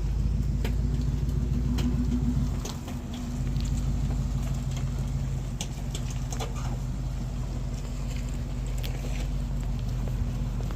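Motor vehicle engine running steadily with a low hum, easing off briefly about three seconds in, with light scattered clicks and rattles over it.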